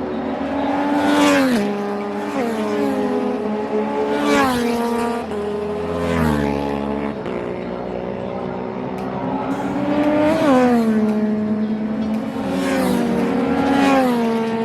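Yamaha racing motorcycles passing on a circuit one after another, each engine's pitch dropping as it goes by. Several bikes come through, with the loudest passes about a second in, around four seconds in, around ten seconds in and near the end.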